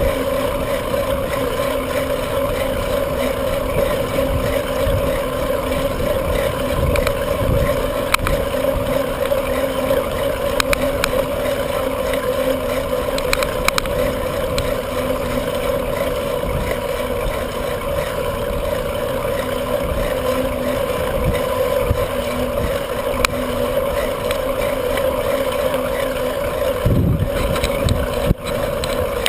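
Bicycle riding noise: wind rumbling on the microphone over a steady droning hum, with a few light clicks.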